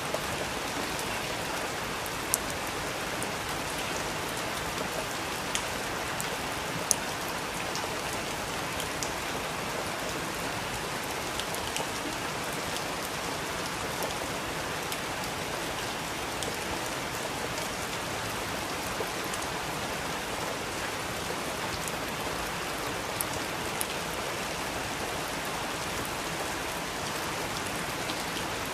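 Steady rain falling, an even hiss with a few sharper drop ticks standing out, most clearly about two, five and seven seconds in and again near the end.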